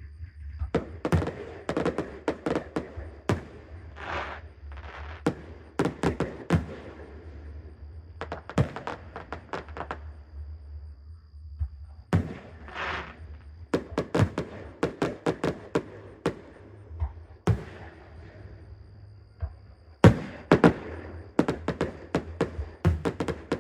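Fireworks bursting in irregular volleys of sharp bangs and crackles, with two short hissing swells between them and quieter lulls, over a steady low hum.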